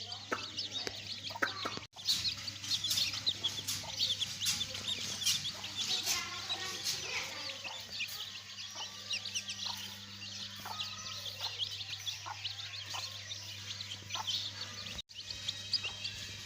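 A brood of domestic chicks peeping in a dense, continuous chorus of short high chirps, with lower clucks among them and a steady low hum underneath. The sound breaks off briefly twice, about two seconds in and near the end.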